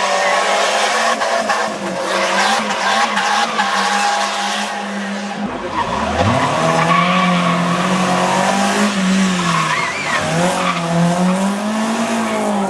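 Hillclimb race car engine running at high revs, its note rising and falling as the car accelerates and lifts through the bends. About five and a half seconds in, the note drops away suddenly, then climbs steeply again as the car pulls hard.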